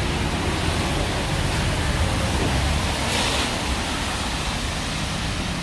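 Steady street noise in light rain: a low traffic rumble under an even hiss, with a louder hiss swelling briefly about three seconds in.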